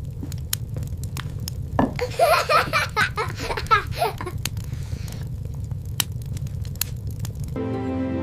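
A child laughing for about two seconds in the middle, over a steady low rumble dotted with sharp crackles. Soft music comes in near the end.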